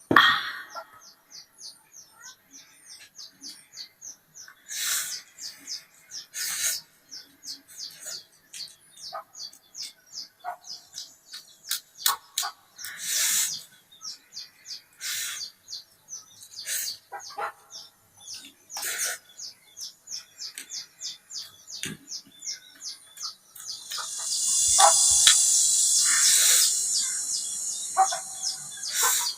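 Birds chirping in a rapid run of short high notes, with scattered short noisy sounds and a louder hiss for a few seconds near the end.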